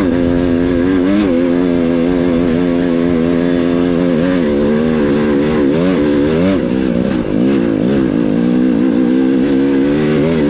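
Dirt bike engine running loud and close, the throttle blipped so its pitch rises and falls several times.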